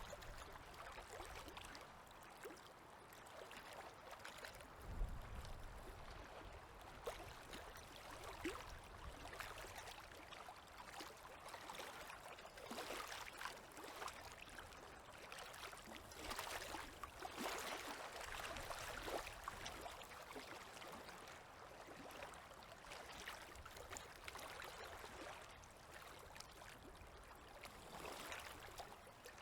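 Small river waves lapping and splashing faintly at the water's edge: a soft wash full of little trickling splashes, a little busier midway through. A short low thump comes about five seconds in.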